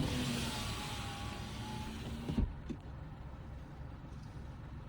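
Low rumble of a car rolling downhill, heard from inside. For the first two and a half seconds a rushing hiss with a faint whine rides over it, ending in a short clunk.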